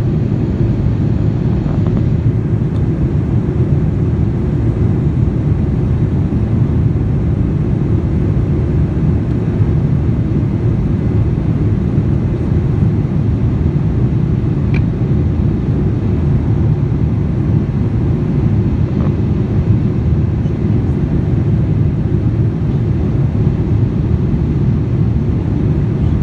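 Steady low rumble of engine and airflow noise inside the cabin of a Boeing 787-9 airliner in flight, unchanging throughout.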